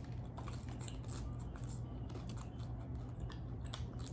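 Close-up chewing of a crunchy hard-shell taco: a run of short, sharp crackles as the fried shell breaks between the teeth, over a steady low hum.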